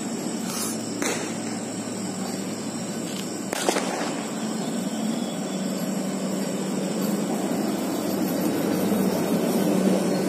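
Train 18 electric multiple unit approaching along a station platform and rolling past close by: a steady rumble that slowly grows louder as the train nears. A few sharp clicks come in the first four seconds.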